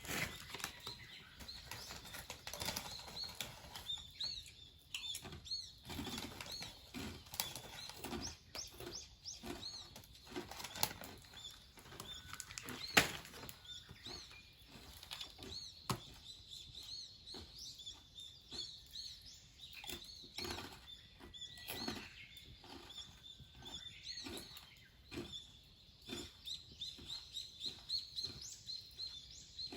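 Small birds chirping over and over, with irregular sharp clicks and crackles throughout and one louder snap about thirteen seconds in.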